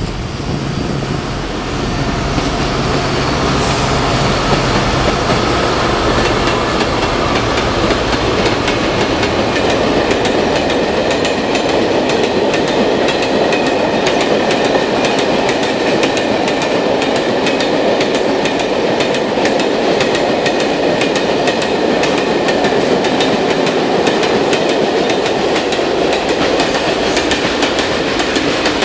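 Dv12 diesel locomotives running as a freight train pulls in. About two seconds in, the sound gives way to a long string of loaded tank wagons rolling past, with a steady clickety-clack of wheels over the rail joints.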